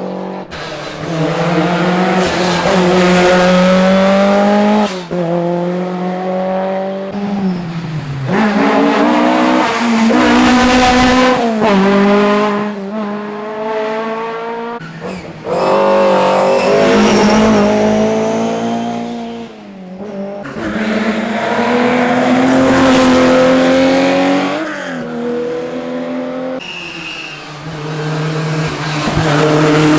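Historic rally cars at full throttle on a closed special stage, one after another. Each engine rises in pitch through the gears and drops back at each shift or lift, and the sound changes abruptly from one car to the next.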